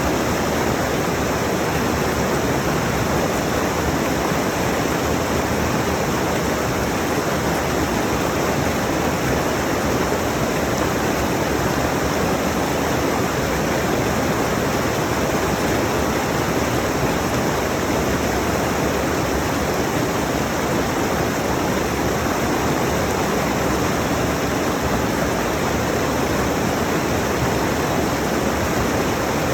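Rushing mountain stream: a steady, even rush of water over rocks.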